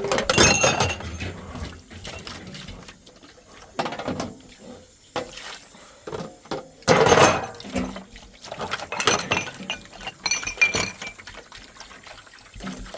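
Pots, dishes and utensils clinking and clattering in a series of sharp knocks, some with a short ring, with a louder rush of noise about seven seconds in.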